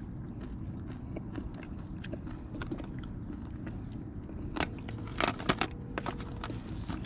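A person chewing and crunching crispy fried white perch close to the microphone, with a cluster of louder sharp crackles about four to five seconds in, over a steady low background rumble.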